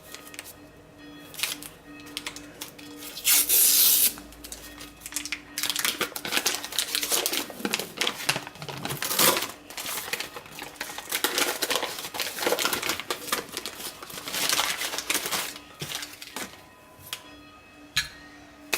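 Cardboard Pringles can being torn and peeled away from a log of hot-process shaving soap: irregular ripping and crinkling in bursts, the loudest rip about three seconds in.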